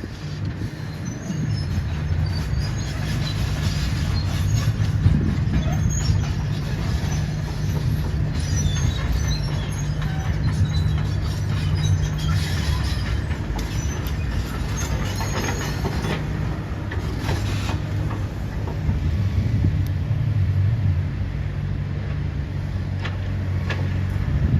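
Heavy demolition machine's diesel engine running steadily, with scattered short high squeaks and metallic clicks over its hum.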